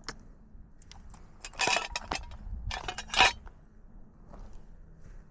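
A few brief scrapes and clicks of something being handled, in two short clusters, the loudest about three seconds in.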